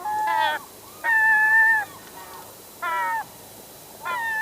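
Recorded glaucous-winged gull calling: four loud calls, two short and two long ones held at a steady pitch, with fainter gull calls between them.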